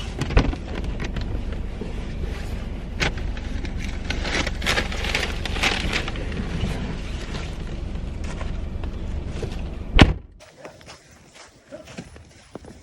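Steady low rumble of a car with its engine running, with scattered clicks and knocks of someone moving about inside, then a car door slammed shut with one loud thump about ten seconds in, after which it is much quieter.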